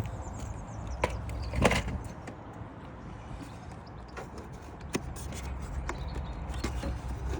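Scattered clicks and knocks of something being handled and moved, the two loudest about a second and a second and a half apart near the start, with fainter single clicks later, over a low steady rumble.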